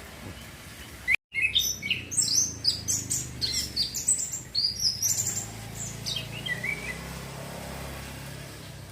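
A young male orange-headed thrush singing: a rapid string of varied, quickly changing high notes lasting about five seconds, ending in a few falling notes. It is practising its song, trying out the loud, continuous 'ngeplong ngecir' style.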